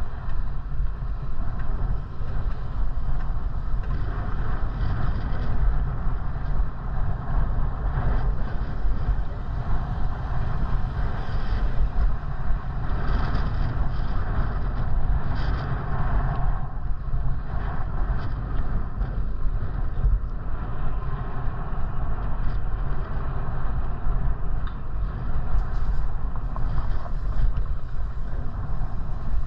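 Steady wind rumble buffeting the microphone of a rider on a moving bicycle.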